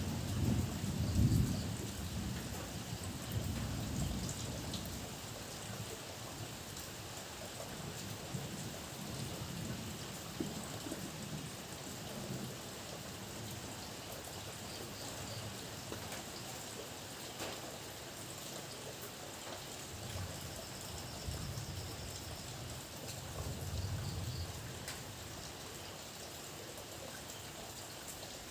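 Steady rain falling, with low rolls of thunder in the first few seconds and again about twenty seconds in.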